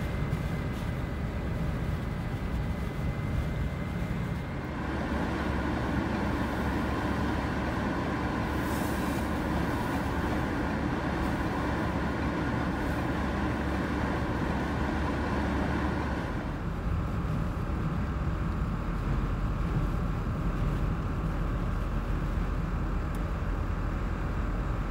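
Blizzard wind of about 70 mph blowing in a steady rush. It grows stronger about five seconds in and eases a little about sixteen seconds in.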